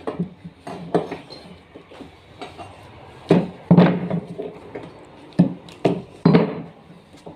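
Irregular knocks and taps of carpentry work, wood and tools struck and set down, about ten separate impacts with short ringing tails, the loudest clustered about three to four seconds in and again around six seconds.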